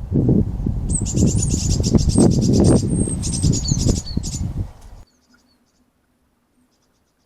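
A small songbird singing a rapid, high-pitched trill over loud, low rumbling noise on the trail camera's microphone. Both cut off suddenly about five seconds in, leaving near silence with a few faint chirps.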